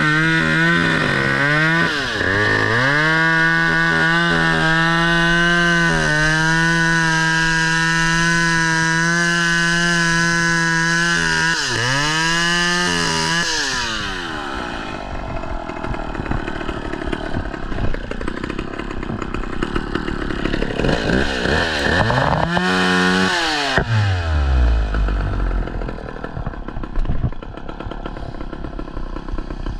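Gas chainsaw held at full throttle for about thirteen seconds, with a few brief dips in pitch, then dropped to a low idle. A short rev comes about 22 seconds in before it falls back to idle.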